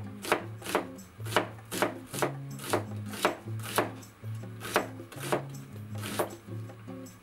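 Kitchen knife thinly slicing an onion on a plastic cutting board: a regular series of crisp knife strokes down onto the board, about two a second.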